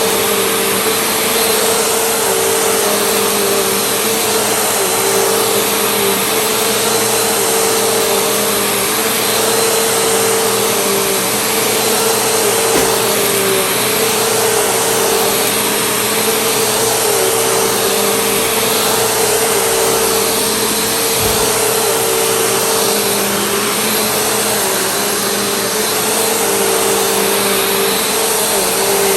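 Vacuum cleaner running steadily, its motor a constant whine with small dips in pitch every second or two.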